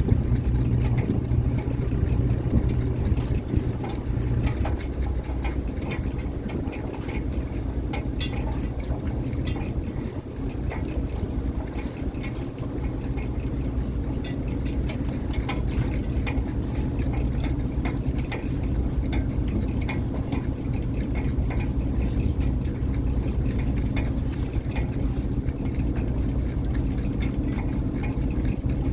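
Fishing boat's engine running steadily, with scattered clicks and knocks over it.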